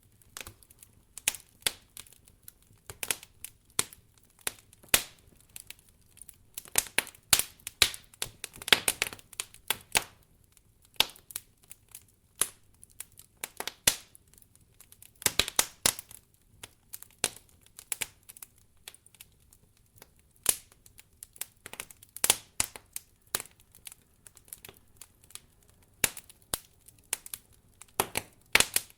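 Wood fire crackling in a fireplace: irregular sharp pops and snaps, some coming in quick clusters, over a faint low hum.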